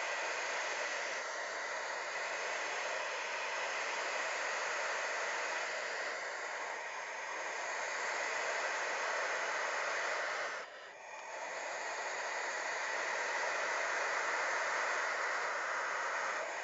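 Barn owls hissing in a continuous, overlapping chorus, with a short break about eleven seconds in.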